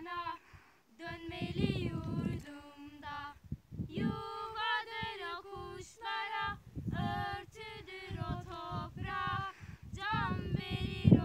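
Female voices singing a song, with notes held for about a second at a time.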